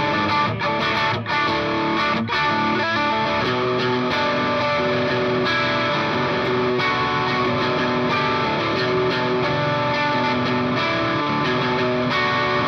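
Fender Stratocaster electric guitar played through a Blackstar HT Studio 20 amp's distortion channel, a continuous run of sustained, overlapping notes and chords changing about once a second.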